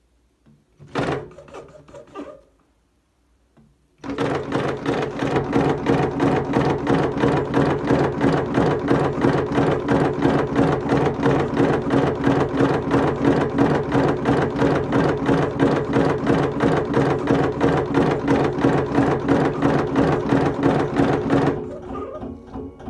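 R45 electric cigarette-rolling machine running: a motor hum under a fast, even clatter from its mechanism. It starts a few seconds in and stops near the end. A brief clatter of handling comes about a second in.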